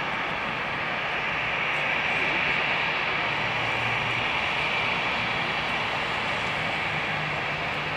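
Jet engines of an Airbus A319 running steadily, a continuous rushing whine with a slight swell a couple of seconds in.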